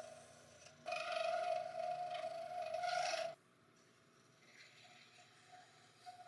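A small electric power tool running with a steady whine and a rasping rub against a workpiece, briefly dropping just before a second in, then cut off suddenly about three seconds in; quieter hand rubbing and scraping follow.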